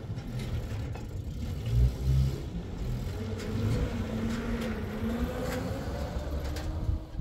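An engine running, its pitch rising slowly and wavering over the last few seconds over a low rumble, then cutting off.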